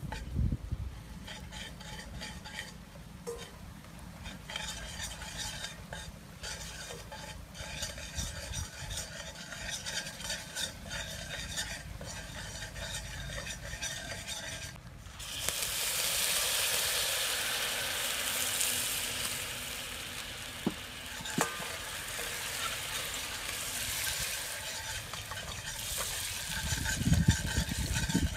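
A metal ladle stirring and scraping in a stainless steel pot on a portable gas stove, with food sizzling in the hot pot. About halfway through, the sizzling suddenly gets much louder and stays loud. There are a few low knocks near the end.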